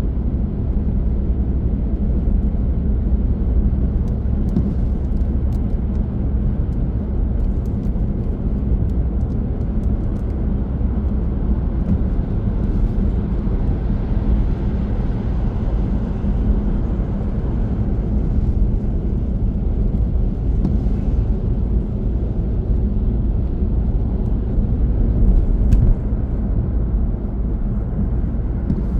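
Steady low rumble of a car driving at speed: engine and tyre road noise, with a few faint ticks.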